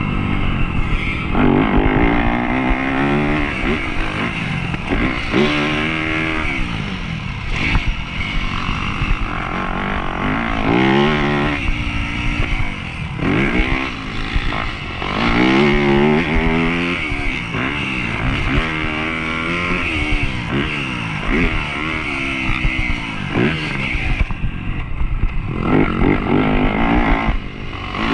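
Dirt bike engine ridden hard, its revs climbing and dropping again every couple of seconds through gear changes and off-throttle moments.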